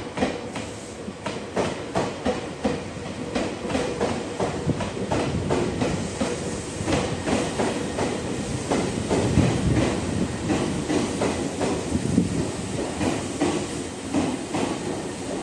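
Izukyu 8000 series electric train running slowly into the station, its wheels clicking over rail joints and points, irregular knocks over a steady running noise.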